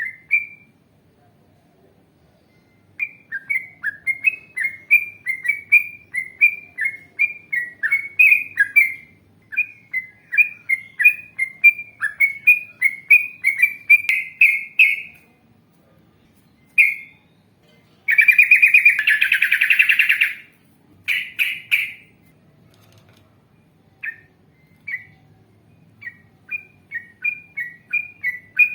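Yellow-vented bulbul (trucukan) singing long runs of quick, repeated chirping notes, about three a second, broken by short pauses. About 18 seconds in there is a harsh, buzzy chatter lasting a couple of seconds, then scattered notes that pick up pace again near the end.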